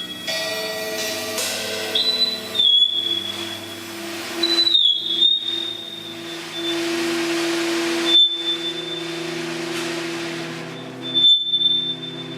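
Free-improvised live music from a small ensemble: steady low drones under a high, thin whistling tone that comes in about four times, each time dipping slightly in pitch and holding, with a stretch of hiss in the middle.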